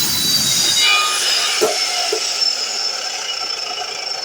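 DeWalt miter saw spinning down after cutting metal conduit: a high whine that slowly falls in pitch and fades, with a couple of light knocks partway through.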